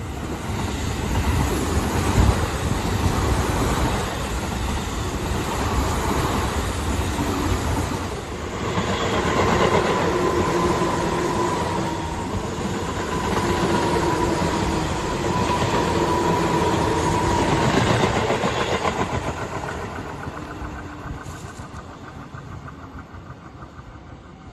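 An electric train on the Tobu Tojo Line passing close by with wheels clattering over the rail joints. A steady tone rides over the rumble through the middle of the pass, and the sound fades away from about nineteen seconds in as the train draws off.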